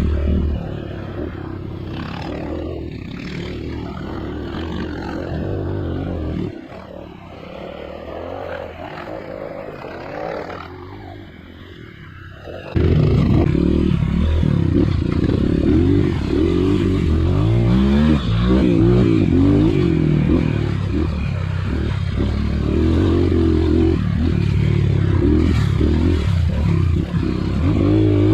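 Dirt bike engine running, dropping to a quieter, lower run for several seconds, then suddenly loud again about halfway through and revving up and down with the throttle.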